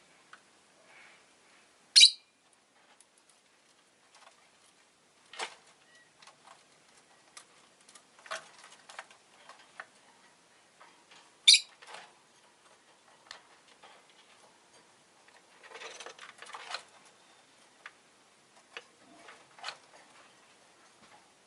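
Rosy-faced lovebird giving two sharp, short high chirps, one about two seconds in and another near the middle, with scattered small clicks and taps in between.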